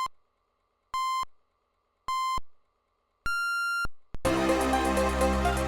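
Amiga demo soundtrack: three short, identical electronic beeps about a second apart, then a higher, longer beep, in the pattern of a start countdown. About four seconds in, electronic dance music with a steady beat starts.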